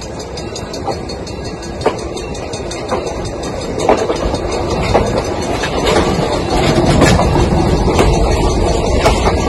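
Passenger train cars rolling past at close range: a steady rumble that grows louder as the cars draw level, with the steel wheels clicking over the rail joints about once a second.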